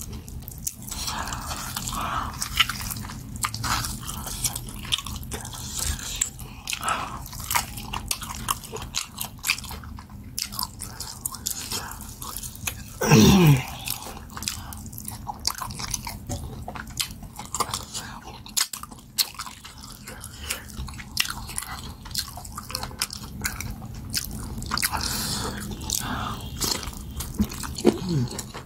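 Close-up mukbang eating sounds: wet chewing, lip smacks and crunching as goat head meat is pulled from the bone and eaten, with many sharp mouth clicks. About halfway through comes a brief louder sound that slides down in pitch.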